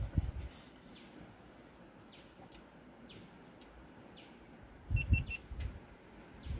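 Small birds chirping in the background: short, quick downward-sweeping calls recurring every second or so, with a fast run of three high notes about five seconds in. A brief burst of low muffled thuds comes at about the same moment.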